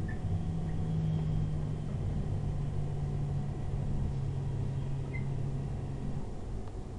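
Passenger train heard from inside the carriage: a steady low rumble of running, with a low hum that sinks slightly in pitch and cuts off about six seconds in.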